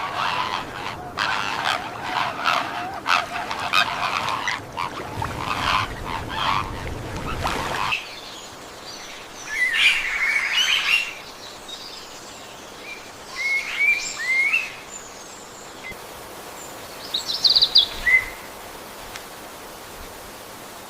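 Rainforest bird calls: a dense stretch of overlapping calls for the first eight seconds, which stops abruptly, then a few separate short calls over a faint, steady forest background.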